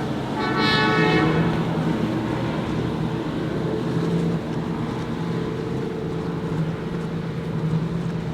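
Motorboat engines running steadily, with a short horn blast of about a second, about half a second in.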